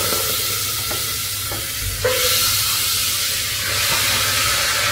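Raw chicken pieces sizzling steadily in hot butter and ginger that has started to brown, in an open pressure cooker, just after they go in. A brief knock about two seconds in.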